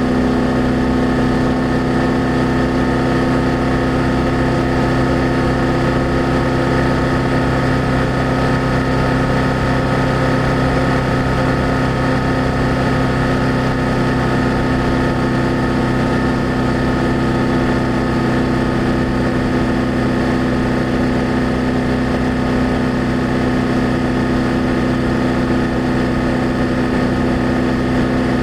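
BMW F800GS parallel-twin motorcycle engine and exhaust running steadily at an unchanging engine speed, with no revving or gear changes.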